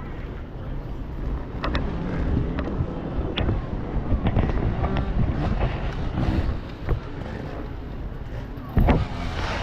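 Off-road motorcycle engine running, rising and falling, with wind buffeting the microphone and scattered knocks; one loud thump near the end.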